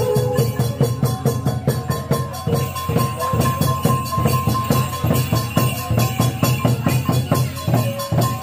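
Khmer chhay-yam folk music: a fast, driving drumbeat with a sustained high note held through the middle.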